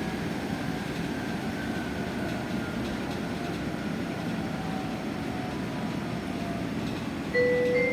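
Electric bus cabin noise while riding: a steady road and running hum, with the electric traction motor's whine slowly falling in pitch as the bus slows. Near the end a bright two-tone stop-announcement chime sounds.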